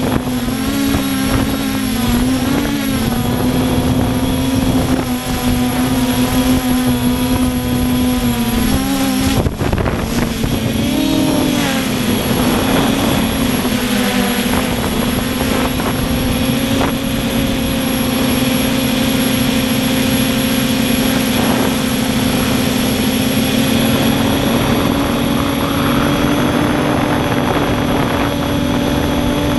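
RC quadcopter's electric motors and propellers whining in flight. The pitch wavers up and down through the first dozen seconds as the throttle changes, then holds nearly steady.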